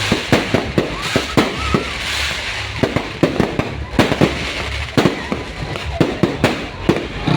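Fireworks display going off: a rapid, uneven string of bangs and pops, several a second, over a continuous crackle.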